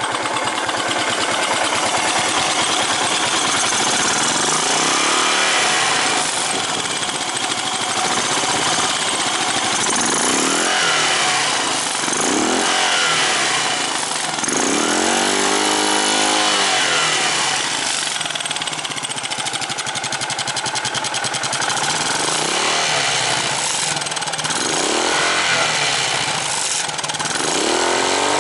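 Yamaha SR400 air-cooled single-cylinder four-stroke engine running, with the throttle blipped about seven times; each rev rises and falls back to idle, and the longest, highest one comes about halfway through.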